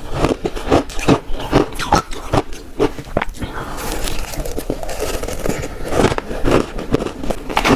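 Close-miked crunching bites of shaved ice: a quick, irregular run of crisp crunches, a few each second, with a denser grinding crunch about four to five seconds in.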